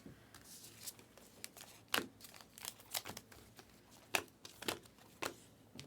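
Foil trading-card pack being torn open and cards handled, a run of short crinkles, rips and clicks.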